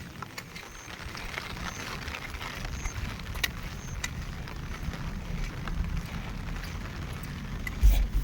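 Monsoon rain falling, scattered drops clicking, with a low rumble of wind on the microphone and a louder thump near the end.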